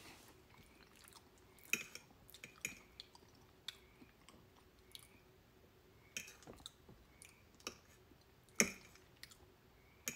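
Faint close-miked chewing, with scattered wet mouth clicks and smacks. A sharper click comes about eight and a half seconds in.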